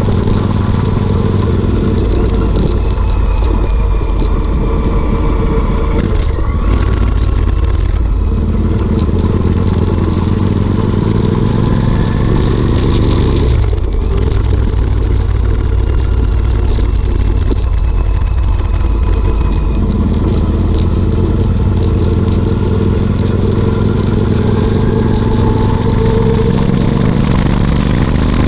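Royal Enfield Interceptor 650 parallel-twin running on the move through a Motowings aftermarket exhaust, a steady low exhaust rumble whose pitch rises and falls a little with the throttle.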